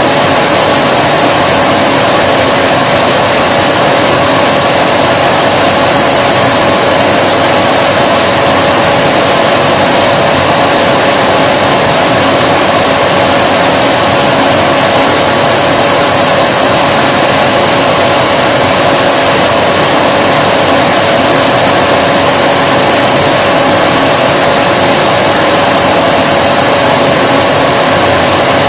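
Vacuum cleaner running steadily and loudly: a constant rush of air with an unchanging motor whine.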